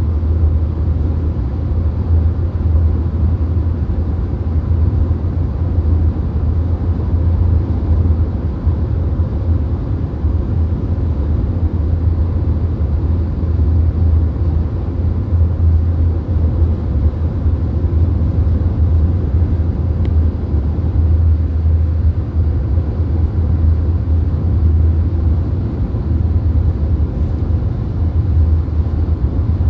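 Steady road noise inside a VW Golf's cabin while cruising at highway speed: a deep, even rumble with a softer hiss above it, unchanging throughout.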